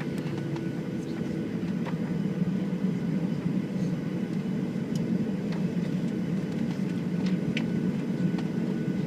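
Steady drone of a Boeing 737-700's CFM56-7B engines and airflow heard inside the passenger cabin, with faint scattered ticks and rattles.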